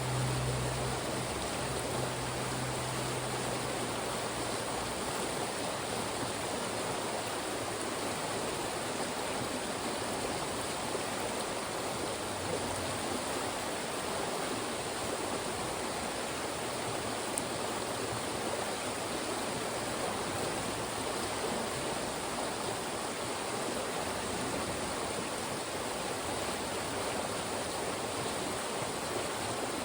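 Fast-moving mountain stream rushing through narrow rock channels: a steady, even wash of water. A low hum fades out over the first few seconds.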